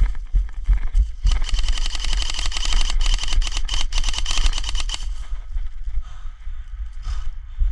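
Airsoft rifle firing a sustained full-auto burst of rapid clicks, lasting about three and a half seconds and stopping abruptly, over low thumps of movement.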